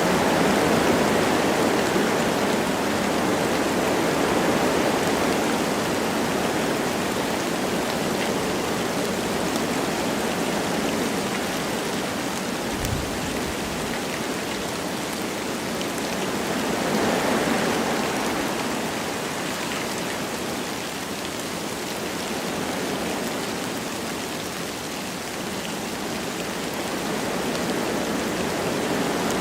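Wind blowing through forest trees with light rain: a steady rushing noise that swells and eases in slow gusts, strongest about seventeen seconds in. A brief low thump comes about halfway through.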